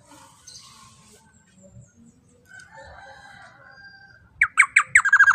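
A bird calling loudly near the end: a few sharp, downward-sweeping notes that speed up into a fast rattling trill. Before that there are only faint scattered sounds.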